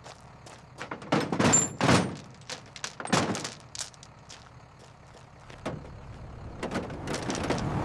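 Pickup truck doors opening and shutting: a series of short thuds and clunks, loudest in the first half.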